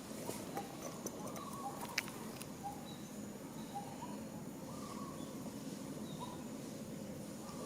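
Short animal calls repeating roughly once a second over a steady noisy background, with one sharp click about two seconds in.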